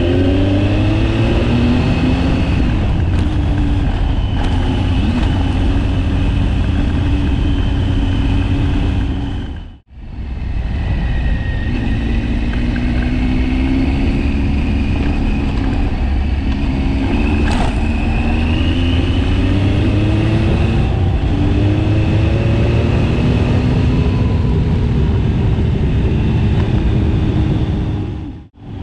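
KTM 1090 Adventure's V-twin engine under way, revving up through the gears in repeated rising sweeps. The sound drops out briefly about ten seconds in and again just before the end.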